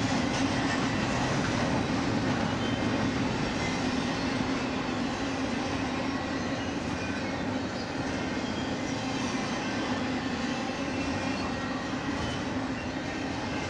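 Freight train rolling past at steady speed: a continuous rumble and hum of steel wheels on rail, with faint scattered clicks.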